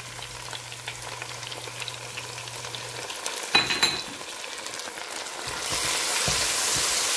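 Chopped onions frying in hot oil in a pot, sizzling steadily as a wooden spatula stirs them, with a brief sharp scrape about three and a half seconds in. Tomato purée is stirred into the hot oil, and the sizzling grows louder near the end.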